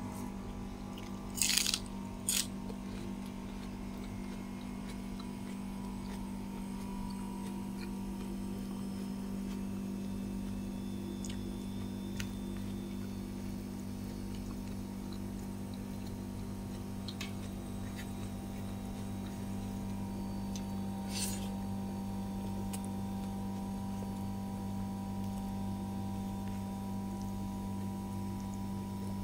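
Crisp crunching bites into raw salad vegetables, twice near the start and once about two-thirds of the way in, over a steady low electrical hum.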